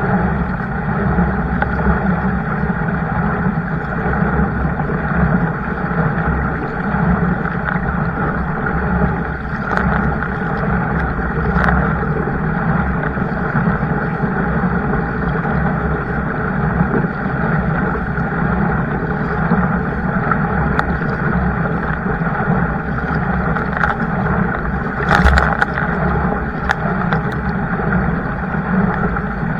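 Steady rushing noise of a kayak moving on the water, with a heavy low rumble of wind on the microphone. A few sharp knocks come through about ten, twelve and twenty-five seconds in.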